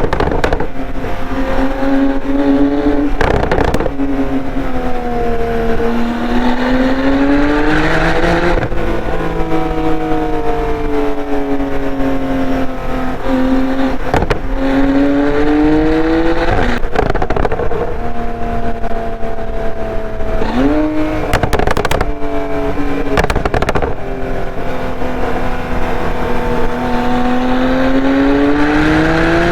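2015 Porsche 911 Turbo S twin-turbo 3.8-litre flat-six running through a SOUL Performance exhaust, accelerating and easing off repeatedly. Its pitch rises and falls throughout, with several sharp breaks at gear changes.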